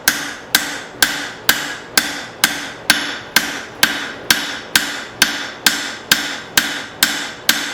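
Forging hammer striking hot leaf-spring steel on an anvil in a steady rhythm of about two blows a second, each blow ringing briefly: the bevels being forged into a knife blade.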